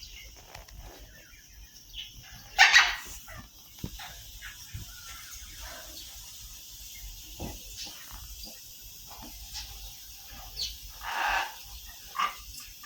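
Pet parrot screaming in a few short, loud calls, the loudest about two and a half seconds in and more near the end.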